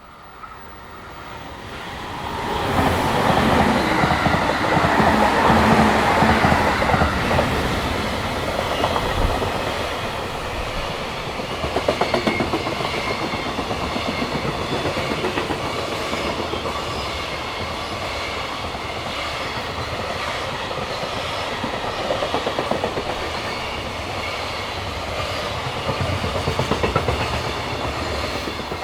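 Freight train passing at speed. The locomotive goes by about three seconds in, then a long string of container wagons rolls past with wheels clicking over the rail joints, and the sound dies away at the end.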